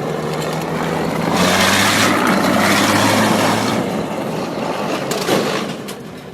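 A motor vehicle's engine running under heavy road and wind noise, its note rising slightly as it speeds up, then fading toward the end, with a short knock about five seconds in.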